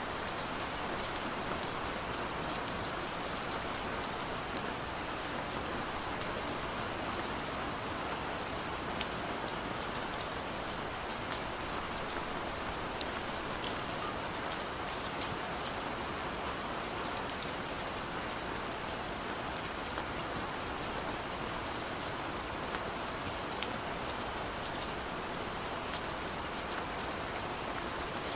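Steady gentle rain falling, a continuous even hiss with many small drop ticks scattered through it.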